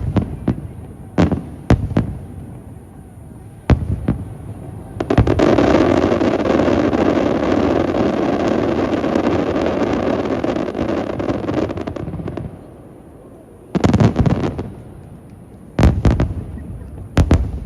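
Aerial fireworks bursting: a few separate sharp bangs, then from about five seconds in a dense run of rapid crackling bangs lasting about seven seconds, then three more loud bursts near the end.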